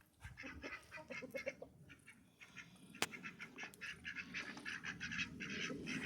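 A flock of domestic ducks quacking in quick runs of short repeated calls, with one sharp click about three seconds in.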